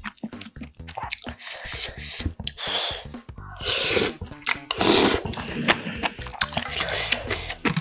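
Close-miked eating sounds of budae-jjigae stew: wet chewing and smacking clicks, with two longer slurps a little past the middle.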